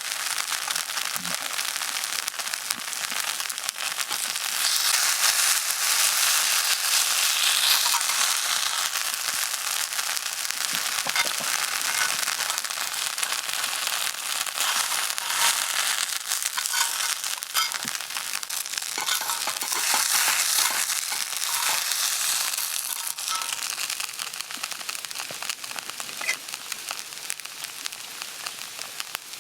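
Food sizzling and spattering on a hot iron griddle: a steady, dense crackling hiss that eases slightly near the end.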